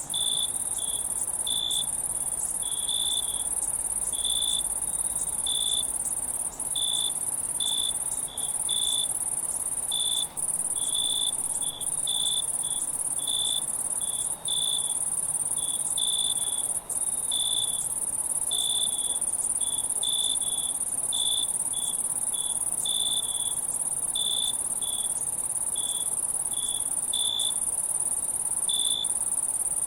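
Insects chirping: short chirps about once or twice a second over a continuous high-pitched trill, which dips out briefly a few times.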